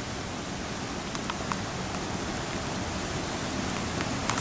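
Steady rush of water: rain falling and a flooded creek running high as rapids, with a few sharp ticks of raindrops hitting the camera about a second in and near the end.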